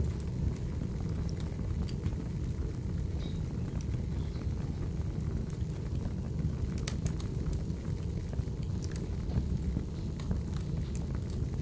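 Wood fire burning: a steady low rumble with scattered sharp crackles and pops, a quick run of them about seven seconds in and again near nine seconds.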